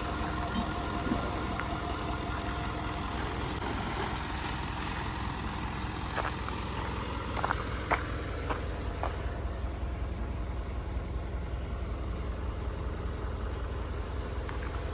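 A truck's engine idling steadily with a low rumble, with a few short sharp sounds over it about halfway through.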